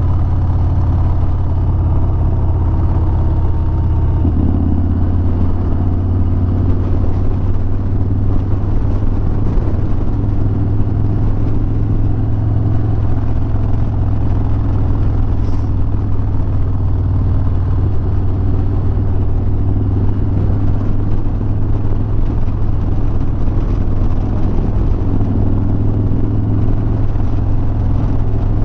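Harley-Davidson Sport Glide's V-twin engine running steadily at highway cruising speed, a constant low hum with rushing wind and road noise over it.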